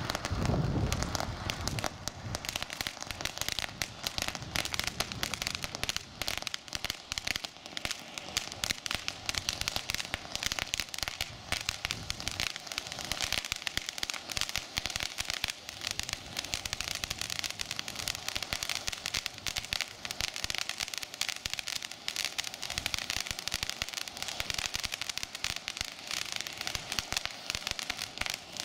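Daytime fireworks crackling continuously: a dense, rapid stream of small pops and crackles with no pauses.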